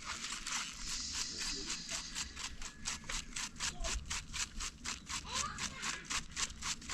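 Rapid, even knife strokes, about five a second, cutting food on a board.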